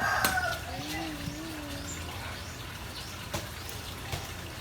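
A rooster's crow trailing off in the first moment, then a steady low background with a brief wavering hum about a second in and a few faint clicks.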